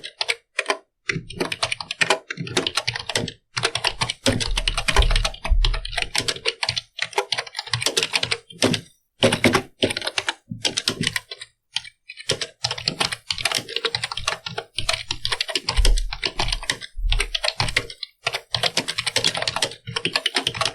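Computer keyboard being typed on fast, keys clicking in quick runs broken by short pauses, with a few heavier low thumps.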